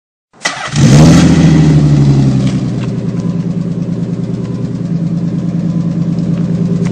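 Nissan 300ZX twin turbo's 3.0-litre V6 breathing through a custom HKS exhaust, starting up: a brief crank about half a second in, then it catches with a rev flare and falls back to a steady idle by about three seconds in.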